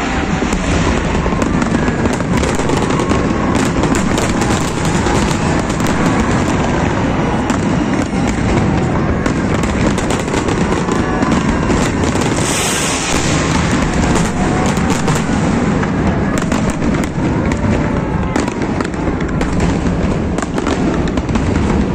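Fireworks display: a steady barrage of booms and crackling bursts, with a brief louder hiss a little past halfway, over the voices of a crowd.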